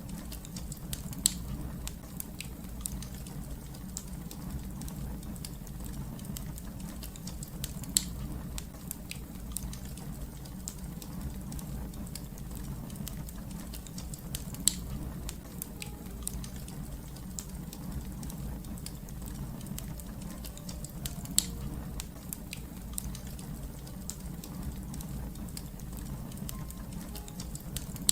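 Fire crackling: a steady low rumble of flames under many small ticks and snaps, with four sharper pops spaced out about every six to seven seconds.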